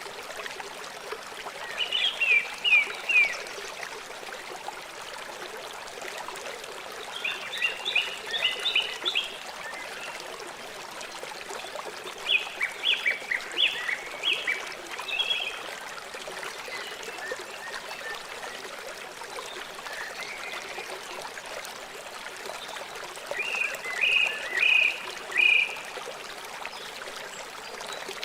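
River water flowing steadily, with an animal calling over it in four short runs of quick, high chirps.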